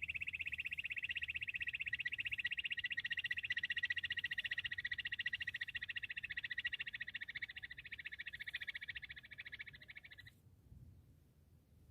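Bush quail calling: a rapid, unbroken trill that fades over its last couple of seconds and cuts off suddenly about ten seconds in.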